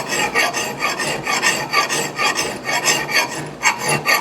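Hand file rasping across the steel bit of an axe in quick, even back-and-forth strokes, filing a new edge onto the axe.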